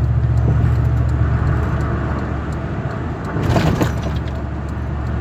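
Steady low road and engine rumble heard inside a Dodge Ram 1500 pickup cruising at highway speed, with a brief louder noise about three and a half seconds in.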